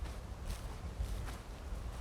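Footsteps of a walker on a countryside path, a few crisp steps over a steady low rumble.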